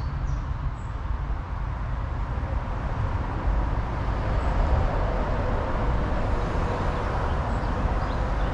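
Road traffic on a main road: a steady rumble of passing lorries and cars, swelling a little about four seconds in.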